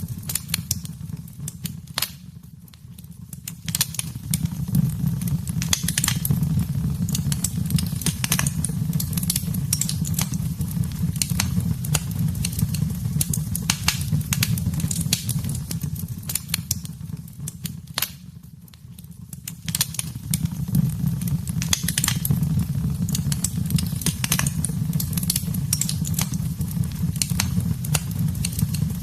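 Wood fire burning in a fireplace: a steady low rumble of flames with continual sharp crackles and pops, easing off briefly twice.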